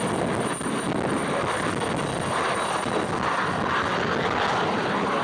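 Aircraft engines running steadily, a loud even noise without any single clear tone.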